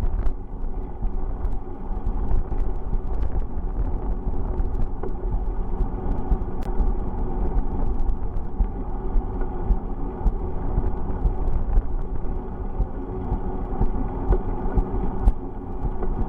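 Steady low rumble of wind buffeting the microphone while riding a bicycle, with road and tyre noise and scattered faint clicks.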